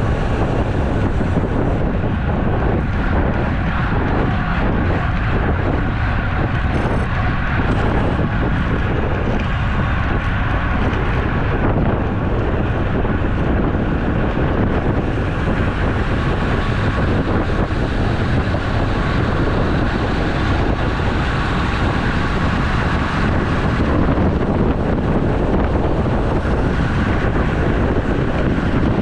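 Steady wind noise rushing over the microphone while riding a road bike.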